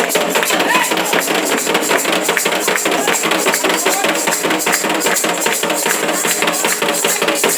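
Candomblé ritual drumming and percussion played fast and dense, with many rapid strikes and a steady bright ringing on top, and a few voices briefly audible about a second in.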